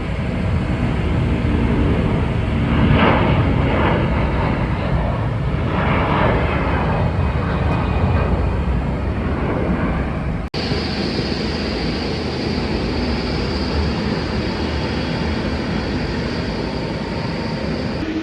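Jet airliner engines, a loud steady rumble. About ten seconds in the sound breaks off for an instant and carries on with a high steady whine added.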